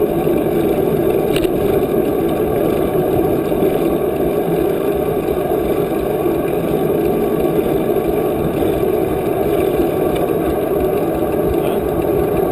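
Steady rushing noise of a moving bicycle ride: wind across the microphone mixed with tyre and road noise.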